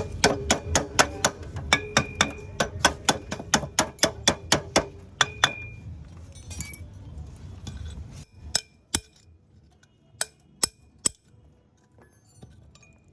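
Metal tool working on motorcycle engine parts: a quick run of sharp metallic clicks, about four a second, for five or six seconds, then a handful of separate clinks.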